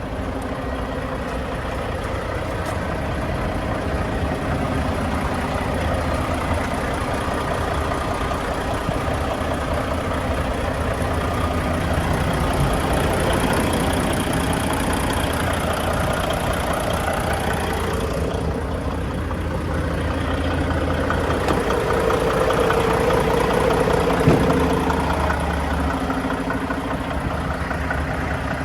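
A 2023 Mack Granite day cab's diesel engine idling steadily, with one sharp knock near the end.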